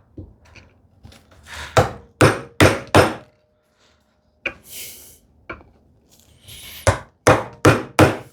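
Bevel-edge chisel being struck to chop a mortise in wood: a run of four quick sharp strikes about two seconds in, a couple of single knocks, then four more strikes near the end.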